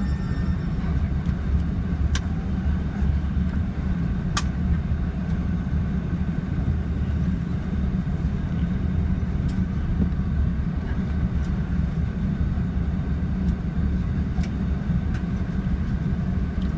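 Inside the cabin of a Lufthansa Airbus A380 just after landing: a steady low rumble of engines and air conditioning. A few sharp clicks sound over it.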